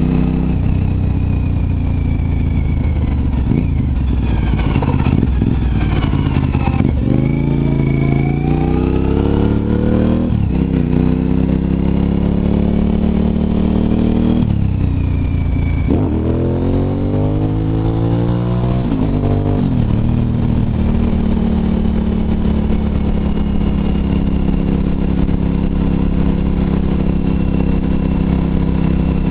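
Suzuki TL1000R's V-twin engine pulling hard through the gears, its revs climbing and dropping back at each upshift several times over. It then runs steadily at cruising speed for the last third or so.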